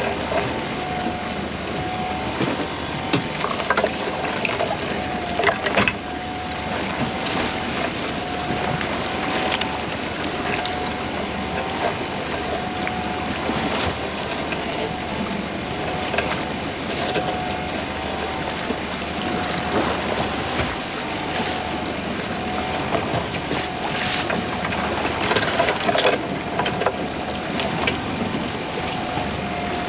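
A small fishing boat's motor running steadily with a slightly wavering hum, over wind and water noise, with irregular sharp knocks and clatters.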